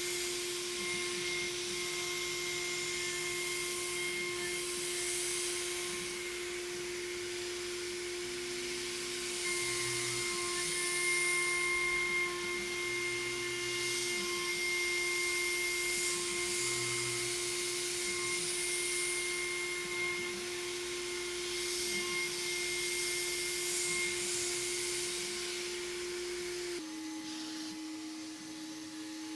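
A CNCDepot S30C high-speed spindle on an Avid CNC Benchtop Pro router runs at a steady high pitch while milling aluminum. Lower whirs rise and fall beneath it as the axes move, and a hiss swells and fades every few seconds. Near the end the pitch drops slightly and the hiss stops.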